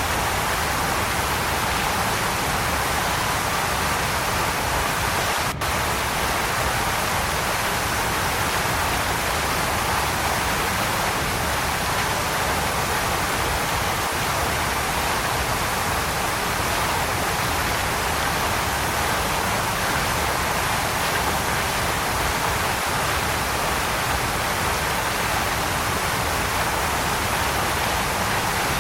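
Waterfall pouring in a steady, unbroken rush of falling water, with a momentary dropout about five and a half seconds in.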